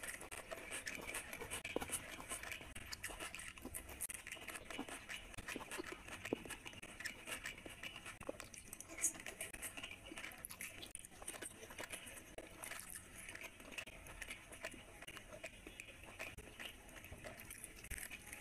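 Close-miked mouth sounds of a person eating by hand: chewing, with many small irregular crunches and wet clicks as a bite of raw onion and bread is worked.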